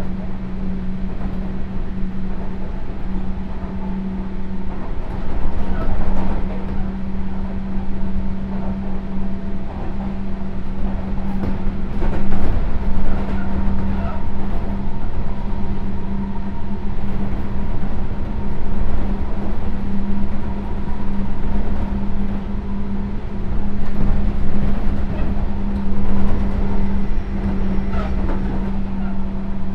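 Sotetsu New 7000 series electric train (Hitachi GTO inverter) running along the line. Heard from inside the car as a steady low hum over the rumble of wheels on rail, with occasional knocks.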